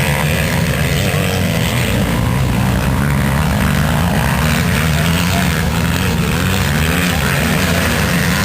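Motocross motorcycle engines running, their pitch rising and falling with the throttle.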